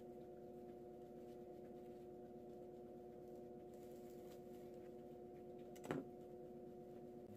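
Near silence: a steady low electrical hum of room tone, with one brief click about six seconds in.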